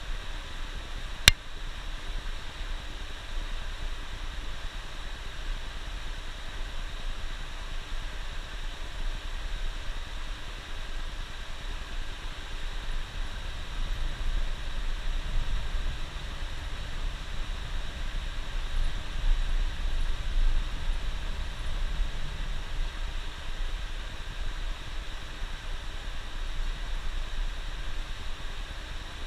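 Steady running noise of a bus on the road: a low engine and road rumble with an even hiss over it, and a single sharp click about a second in.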